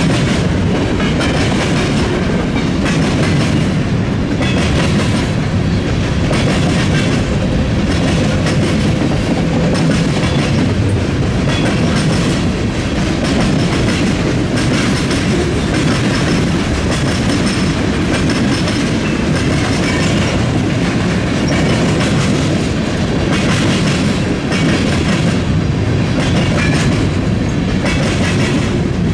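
Freight train cars rolling steadily past, their wheels clacking rhythmically over rail joints and the diamond crossing, over a continuous low rumble.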